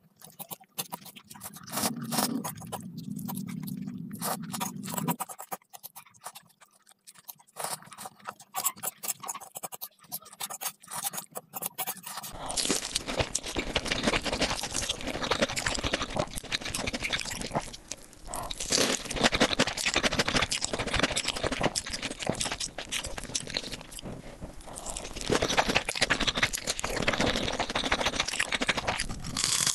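Close-miked eating sounds: food being chewed, a dense run of small clicks and smacks from the mouth.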